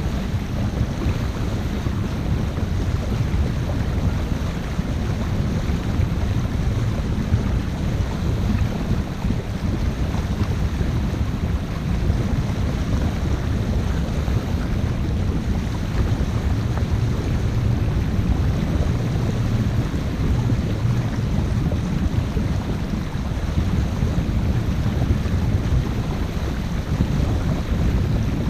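Steady low rumble and rushing wind noise on the microphone aboard a 50-foot motor-sailer under way.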